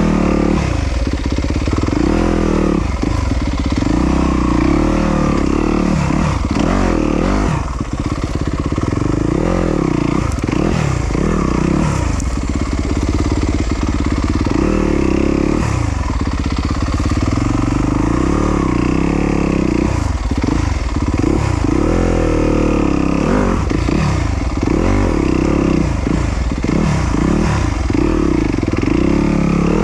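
Yamaha YZ250FX single-cylinder four-stroke dirt bike engine revving up and down over and over as the throttle is worked, with no steady speed for long.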